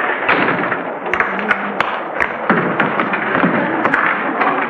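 Train carriage clatter: a steady rushing noise with frequent irregular knocks and taps.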